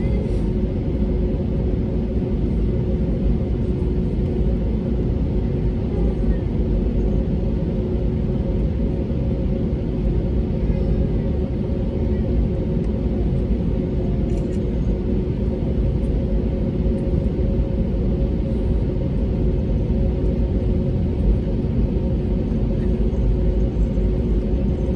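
Cabin noise inside an Airbus A320neo with Pratt & Whitney PW1100G geared turbofan engines: a steady deep rumble of engine and airflow with two steady droning tones.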